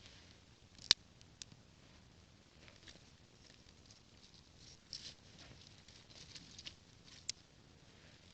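Faint crackling and rustling of small dry twigs and kindling being handled while lighting a campfire, with a few sharp clicks, the loudest about a second in and another near the end.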